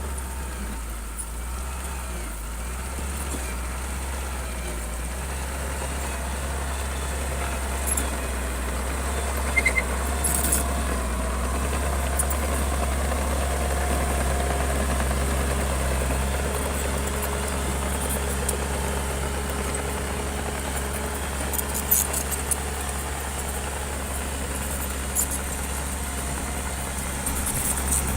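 Bulldozer's diesel engine running steadily with a deep low hum that swells and eases slightly, with a few short knocks.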